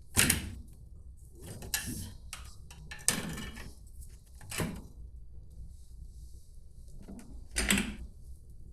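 A series of about five sharp knocks and clunks a second or so apart, the loudest at the start and near the end, of the kind made by a cabinet's doors and drawers being opened and shut.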